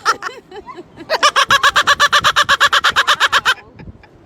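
Parrot imitating a person's laugh: a fast, even run of high 'ha-ha-ha' notes, about ten a second, broken by a few short chirps, then a second, longer run that stops about three and a half seconds in.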